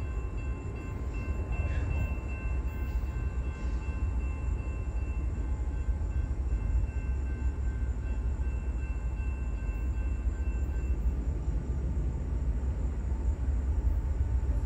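Norfolk Southern freight train, led by an AC44C6M and an SD70ACe locomotive, approaching with a steady deep rumble. A long, steady multi-note train horn chord sounds over it and stops about three-quarters of the way through.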